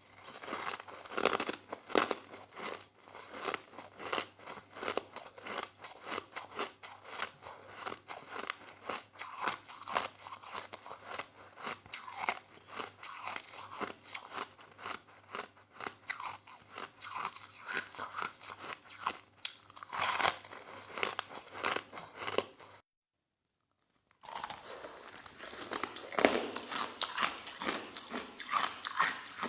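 Soft crushed ice being chewed close to the microphone: dense, rapid crunching with louder bites now and then. The crunching stops dead for about a second and a half a little over two-thirds through, then resumes.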